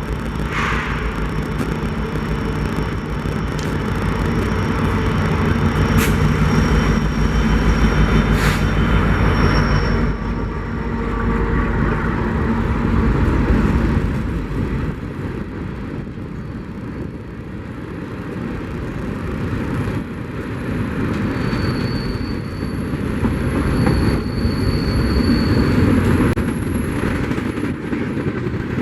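Freight train rolling past. A diesel locomotive's engine drones steadily for about the first ten seconds, then the cars rumble and clatter along the rails, with thin high squeals here and there.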